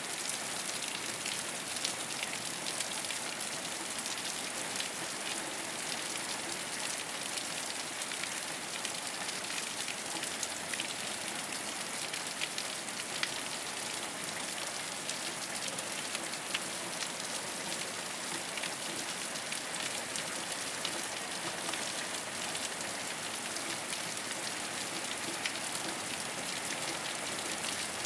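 Steady rain falling on a rooftop: an even hiss peppered with many small drop ticks.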